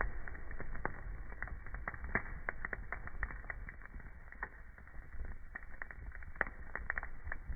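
Wood fire crackling: irregular sharp pops and snaps over a steady low rumble of burning, with one louder pop a little over six seconds in.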